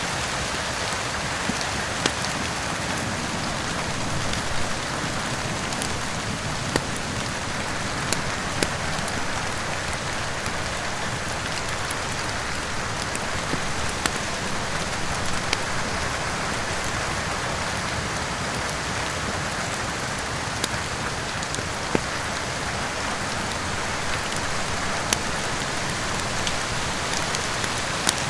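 Steady rain, with a dozen or so sharp, scattered crackles and pops from a wood fire burning in a fireplace.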